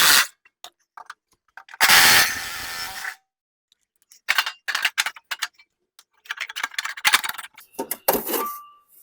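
Hand tools clicking and clanking on metal as the belt covers are taken off a walk-behind mower deck: a burst of noise about a second long near two seconds in, then runs of rapid clicking.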